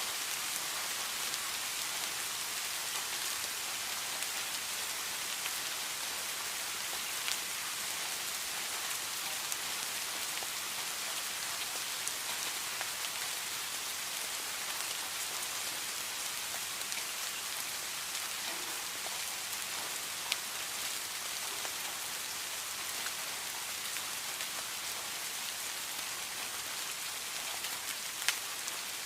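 Steady heavy rain hissing, with a few sharp louder drop impacts scattered through it.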